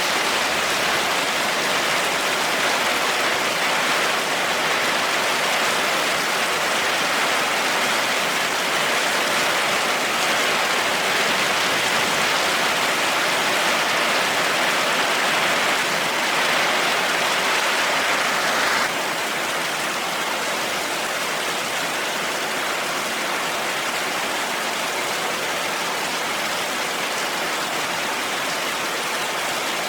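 Heavy rain falling steadily, a dense even hiss. About two-thirds of the way through it abruptly becomes a little quieter and duller.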